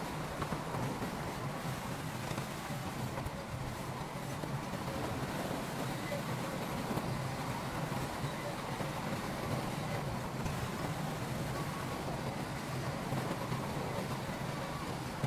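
Heavy construction machinery's diesel engine running steadily, a continuous low rumble with no breaks or sudden changes.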